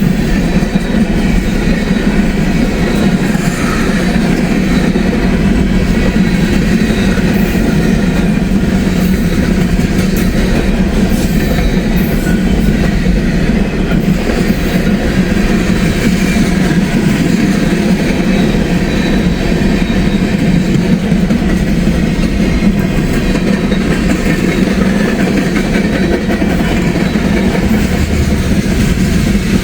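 A train's cars rolling past at speed: a steady, loud rumble of wheels on the rails.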